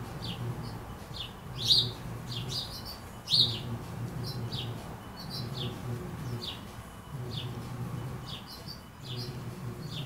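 Small birds chirping over and over, short sharp falling notes several times a second, with two louder chirps about two and three and a half seconds in.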